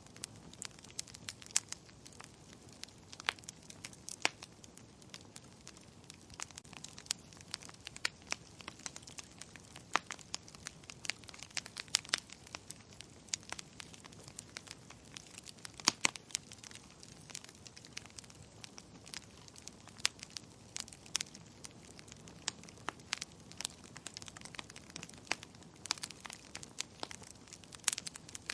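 Fireplace wood fire crackling: irregular sharp pops and snaps, several a second, some much louder than others, over a faint steady hiss.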